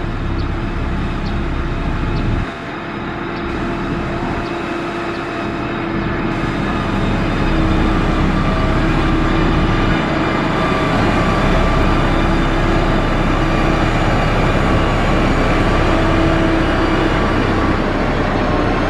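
Diesel engine of heavy road-construction machinery running steadily with a droning hum. It drops briefly a couple of seconds in, then grows louder and holds.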